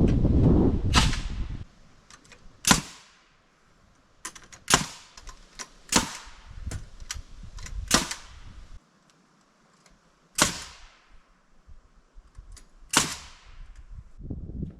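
Nails being driven into wood framing: a series of sharp single bangs, one to three seconds apart, each with a brief ring. A low rumbling noise comes first and stops after about a second and a half.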